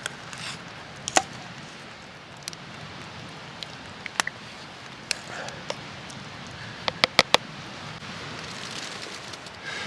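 Wood campfire crackling, with scattered sharp pops over a steady hiss and a quick run of three pops about seven seconds in.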